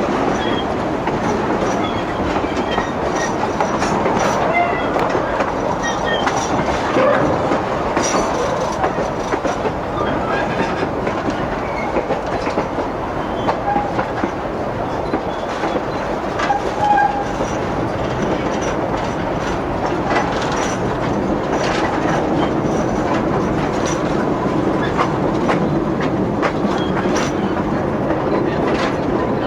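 Narrow-gauge railway passenger car rolling along the track, heard from on board: a steady rumble with wheels clicking over the rail joints and a few brief squeaks, the loudest a little over halfway through.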